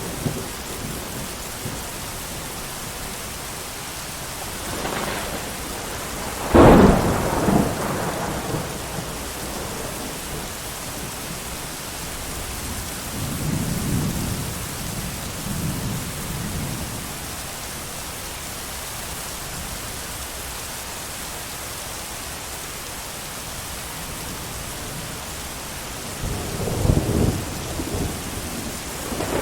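Steady heavy rain with thunder: a sharp, loud thunderclap about six and a half seconds in, rumbling on for a second or two, softer low rumbles in the middle, and more thunder building near the end.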